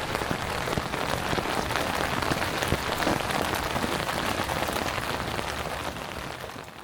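Steady rain, a dense mass of drops striking a surface, fading a little near the end.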